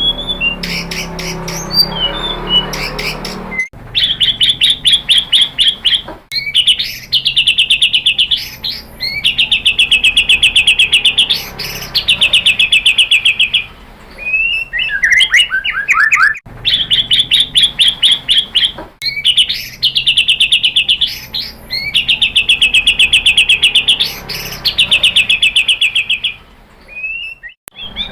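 White-rumped shama (murai batu) singing long, very rapid rattling trills, phrase after phrase, with short sweeping whistled notes between them. The song stops abruptly several times and the same run of phrases comes round again, as in a looped lure recording.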